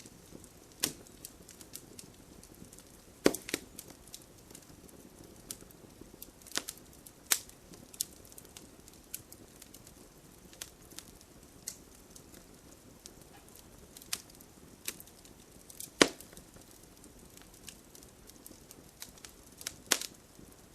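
Campfire crackling: irregular sharp pops and snaps of burning wood over a faint low hiss. A louder pop comes about three seconds in, the loudest about three-quarters of the way through, and another near the end.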